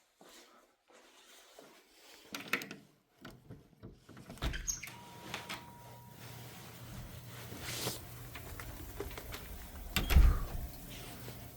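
Clicks and knocks of a door being opened and handled. Then a steady low rumble of wind on the microphone outdoors, with a loud thump near the end.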